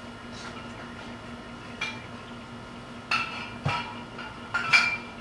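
Hand tools and metal parts clinking and clanking several times, with a short metallic ring after some strikes. The loudest clank comes near the end. A steady low hum runs underneath.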